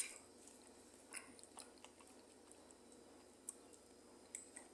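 Near silence, with faint chewing and a few light clicks of a knife and fork against a plate.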